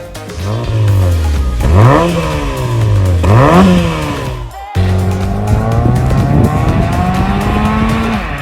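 Honda Civic 1.8-litre four-cylinder through an MS-R aftermarket cat-back exhaust with straight-through mid and rear mufflers. The engine is revved twice in quick blips that rise sharply and fall back. After a cut, a steady exhaust drone climbs slowly in pitch as the engine pulls.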